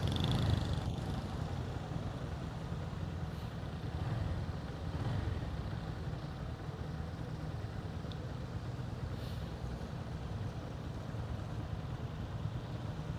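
Motorcycle running steadily under way: a continuous low engine rumble with an even rush of road and wind noise.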